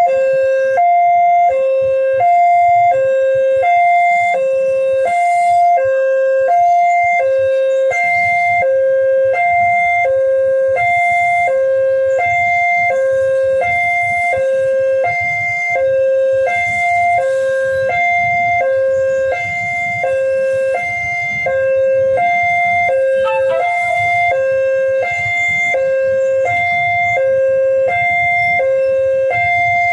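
Railway level-crossing warning alarm sounding a steady two-tone electronic hi-lo tone, switching pitch about twice a second. A low rumble joins underneath from about eight seconds in.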